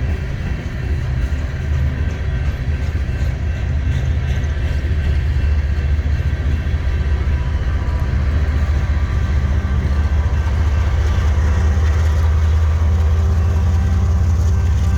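Diesel freight locomotive engines running with a steady low rumble that gets a little louder about five seconds in.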